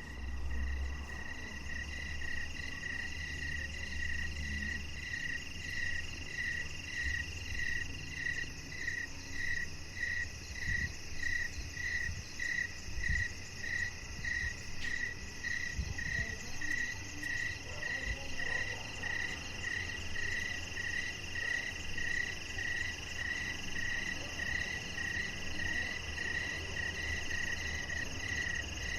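Chorus of frogs and insects: one high, pulsing call repeats evenly about twice a second over a continuous high-pitched trill.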